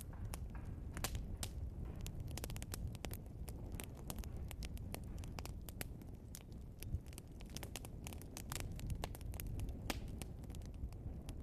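Burning logs in a fireplace crackling, with many sharp irregular pops over a low steady rumble of the flames.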